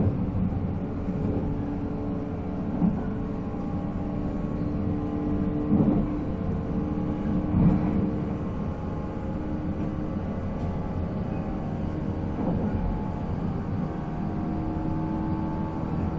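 485-series electric train's MT54 traction motors running at speed with a steady hum and gear whine over a deep rumble from the running gear. A few brief louder thumps come through, the loudest near the middle.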